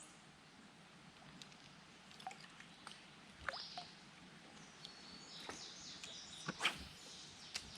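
Faint creek-side ambience: scattered small water drips and light splashes, with a few brief high bird calls, most of them near the end.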